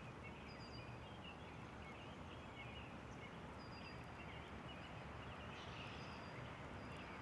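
Faint, steady outdoor background noise by a river, with a few brief faint high chirps scattered through it.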